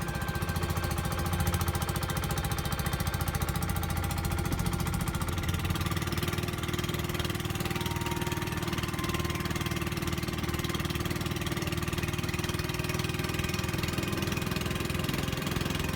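Pump boat's single inboard engine running steadily underway, a fast even knocking beat.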